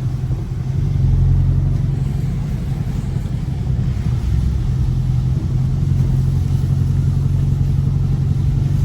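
Dodge Scat Pack's 6.4-litre V8 engine running at a low, steady pace, swelling slightly about a second in.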